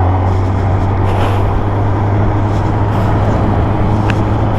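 Motorcycle engine running at a steady cruise, a constant low drone, under a heavy rush of wind noise.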